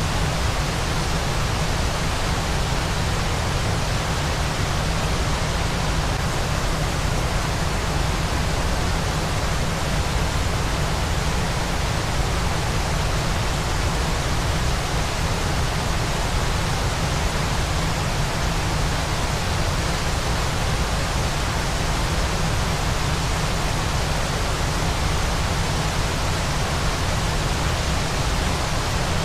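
Steady, unvarying rushing of a waterfall as white noise, an even hiss spread across the whole range with a heavier low rumble.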